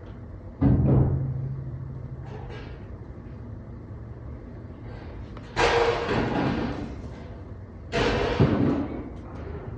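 Construction noise coming through the building: a heavy thud about half a second in, then two louder, rough knocking and scraping noises about a second long each, the second with a sharp bang.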